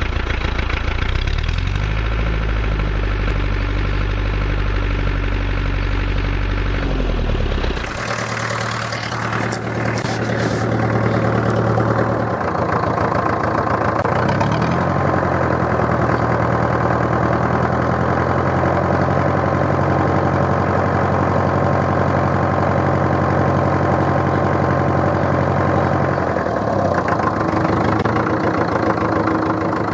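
Tractor engine running steadily, its speed stepping up and down a few times, with a short stretch of rattling about eight seconds in.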